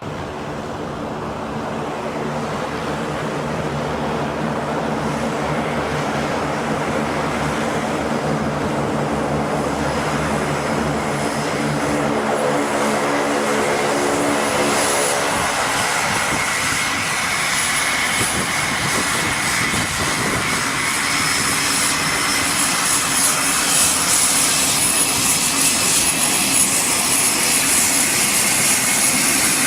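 Military transport aircraft engines running and growing steadily louder. The first half has a steady low drone made of several even tones; these fade about halfway through, leaving a rushing roar with a high whine.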